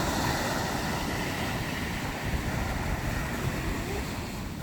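Ocean waves washing in a steady rush, with wind gusting on the microphone.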